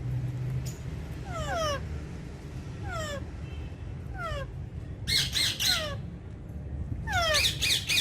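Alexandrine parakeets calling: short squawks that slide down in pitch, about one every second or so, then bursts of harsh, loud screeching about five seconds in and again near the end.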